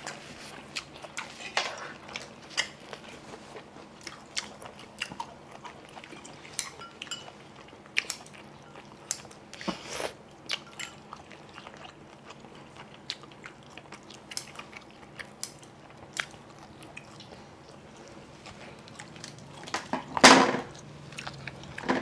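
Close-miked chewing and biting of seafood, with many scattered wet mouth clicks and smacks, and a louder sound near the end.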